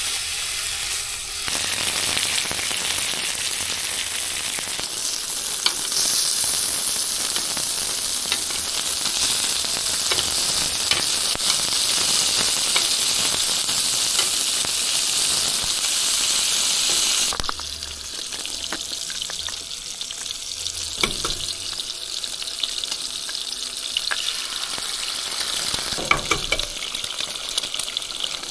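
Sausage and bacon frying on a Blackstone flat-top griddle: a loud, steady sizzle that drops to a quieter crackle about two-thirds of the way through, with a few light clicks.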